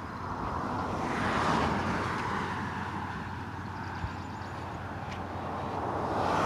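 Cars passing on a nearby highway: tyre and road noise that swells as one car goes by about a second and a half in, eases off, then builds again as another approaches near the end.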